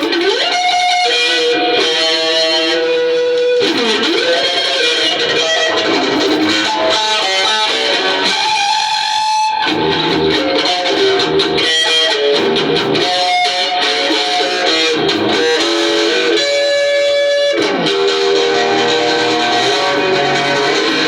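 Electric guitar playing a lead line of sustained notes, many of them bent up and down in pitch.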